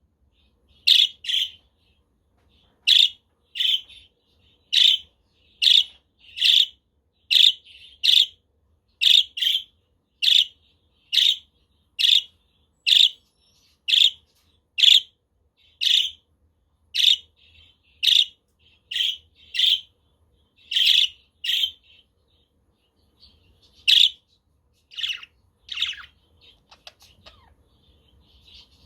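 A pet parrot giving short, sharp calls about once a second, two dozen or so in a row, with a brief pause a little before the end.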